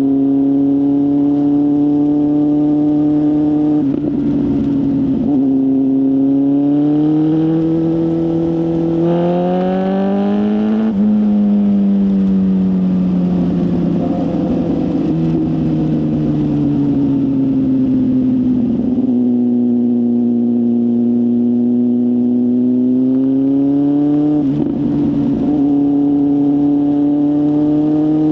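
BMW S1000RR inline-four engine through a full exhaust system, ridden under way at moderate revs. The revs climb about eight seconds in, peak around eleven seconds, then ease back down, and rise again a little near the end.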